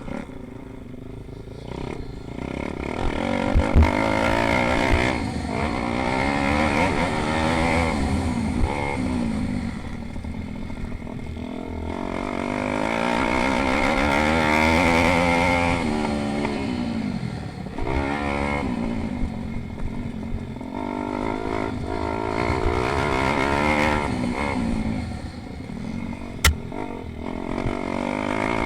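Pit bike engines racing, their pitch climbing and dropping over and over as the bikes accelerate and back off for corners. A few low thumps come about four seconds in, and there is a sharp click near the end.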